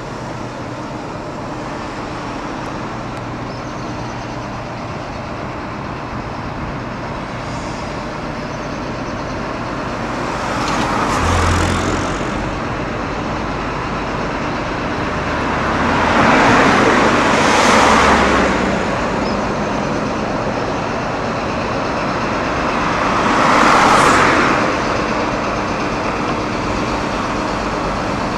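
Steady road traffic noise, with three vehicles passing one after another, about 11, 17 and 24 seconds in, each swelling and fading over a couple of seconds.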